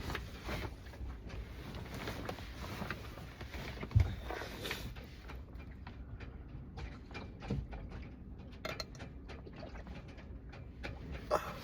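Sounds of a person eating: scattered small clicks, taps and rustles of food and tableware being handled. A louder low knock comes about four seconds in, and a smaller one near the end.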